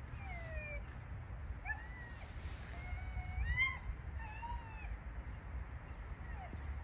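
Birds calling: many short whistled notes that glide up and down, at several pitches and scattered at uneven intervals, over a steady low rumble of wind and background noise.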